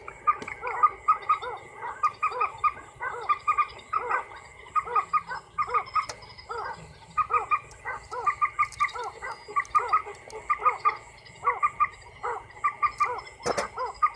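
A night chorus of many frogs calling, with short repeated croaks overlapping one another without a break, over a faint steady high insect trill.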